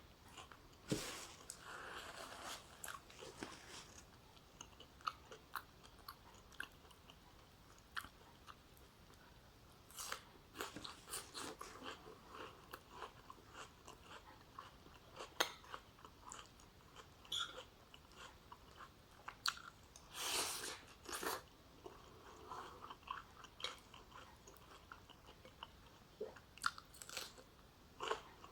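A person eating oxtail stew with rice, onion and vegetables: intermittent chewing and crunching with small sharp clicks, louder for a moment about ten seconds in and again about twenty seconds in.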